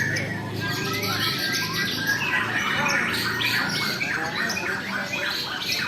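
Several white-rumped shamas (murai) singing at once, a dense tangle of overlapping whistles and rapid chattering phrases with no pause.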